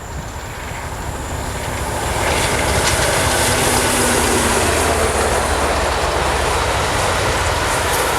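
A train passing, its running noise building over the first two seconds and then holding steady and loud.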